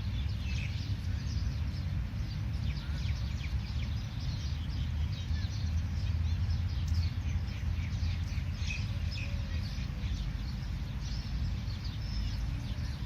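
Bird chirping: many short, rapid chirps that keep coming, over a steady low rumble.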